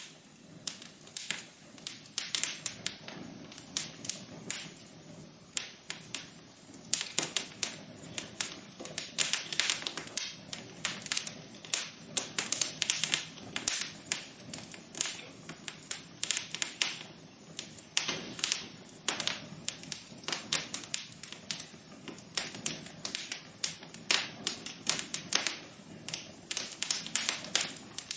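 Wood fire burning in a fireplace, crackling and popping in quick irregular snaps over a soft low hiss of the flames.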